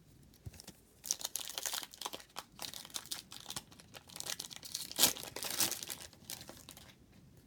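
A trading card pack wrapper being torn open and crinkled in the hands: a run of crackling rustles starting about a second in, with the loudest rip about five seconds in.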